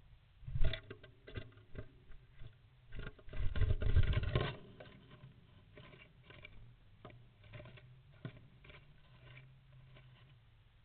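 Woodpecker scrabbling and knocking about on wood as it comes home to its roost: a sharp knock just under a second in, a loud stretch of scratching and scraping from about three to four and a half seconds in, then lighter, irregular taps and scratches.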